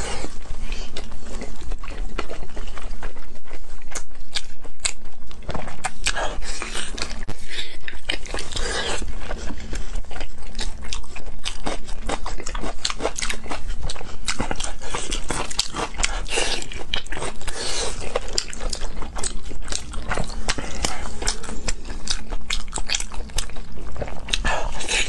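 Close-miked eating: wet biting, chewing and slurping of a chewy, sauce-coated food, with constant lip smacks and sharp mouth clicks.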